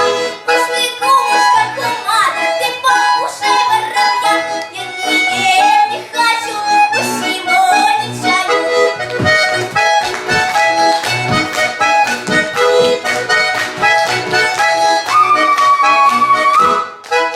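Live instrumental music: a reedy, accordion-like melody over evenly repeated low bass notes and chords.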